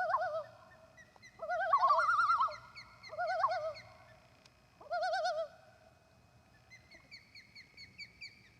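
Common loons giving their wavering tremolo call in several short bouts, two or more birds overlapping. Near the end comes a run of quick, high chirps from another bird.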